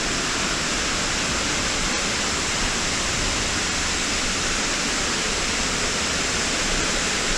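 Waterfall rushing with a steady, even noise.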